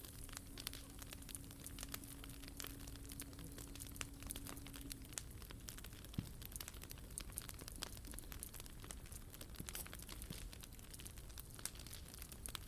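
Wood fire burning in a POMOLY T-Brick Ultra, crackling with frequent irregular small pops and snaps.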